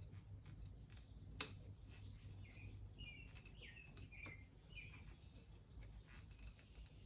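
Faint bird chirps, a few short calls in a row, over a steady low hum, with one sharp click about a second and a half in.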